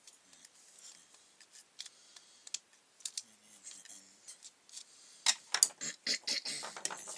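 Scattered small clicks, taps and rustles of hands working on a brush cutter's plastic recoil starter while fitting a new pull cord, with a quick run of sharper clicks and scraping from about five seconds in.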